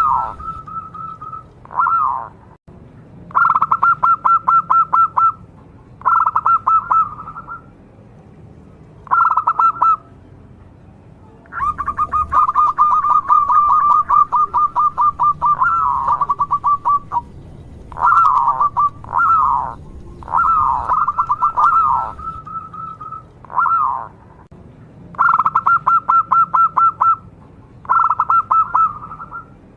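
Zebra dove (perkutut) cooing over and over: bursts of rapid, stuttering notes, each about one to two seconds long, with short pauses between them.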